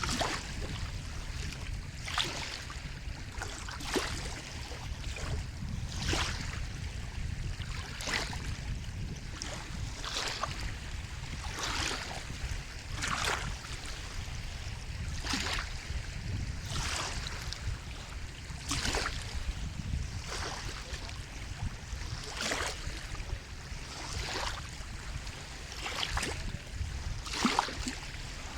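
Sea water lapping and splashing in short bursts every second or two over a steady low rumble of surf and wind.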